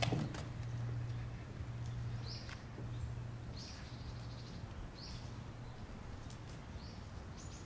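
A bird calling in short, high chirps, five of them at even intervals of about a second and a half, over a low steady hum that fades out about halfway through.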